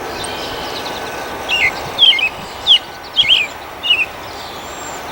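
A bird calling: about five short whistled notes, each sliding downward in pitch, starting about a second and a half in, over a steady background noise.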